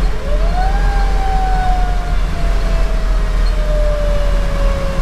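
Federal Q2B mechanical siren winding up quickly in pitch just after the start, then slowly coasting down over several seconds, over the steady low rumble of the fire engine's diesel and road noise.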